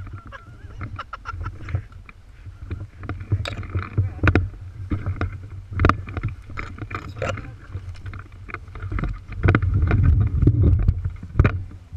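Wind rumbling on a handheld microphone, with irregular knocks and rustles of handling and movement; the knocks are thickest around four to six seconds in and again near the end.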